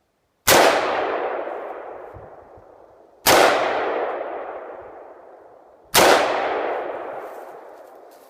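Three Tannerite explosions, one after another, each a sudden loud boom with a long rolling echo dying away over a couple of seconds. They come about two and a half seconds apart.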